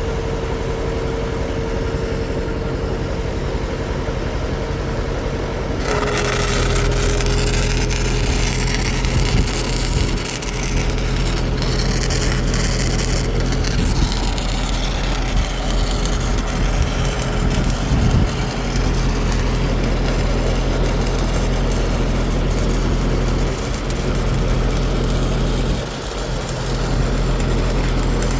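Machinery running steadily with a constant hum; about six seconds in a louder hiss joins and the hum drops slightly in pitch.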